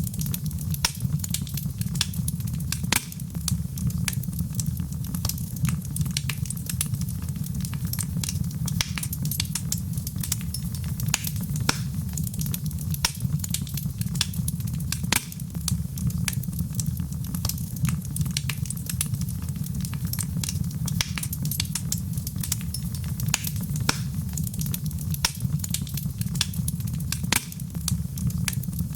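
Fire crackling in a fireplace: many sharp, irregular pops and snaps, several a second, over a steady low rumble.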